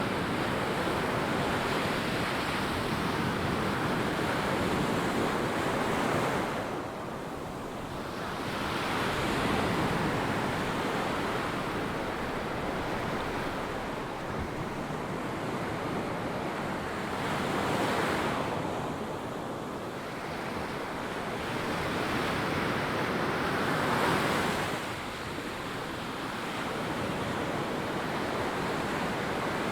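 Ocean surf breaking and washing up a sand beach, swelling and easing every several seconds.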